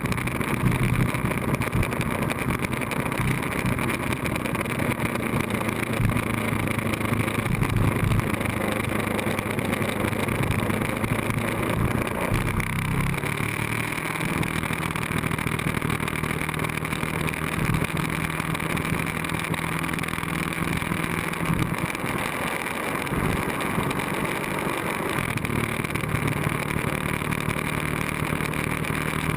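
Ducati 1098S's L-twin engine running on the move under a steady rush of wind noise. The engine note shifts about a third of the way in, holds steady for several seconds, dips briefly, then steadies again.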